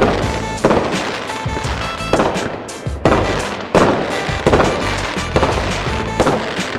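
Fireworks going off in repeated loud bangs, each trailing off, with music playing underneath.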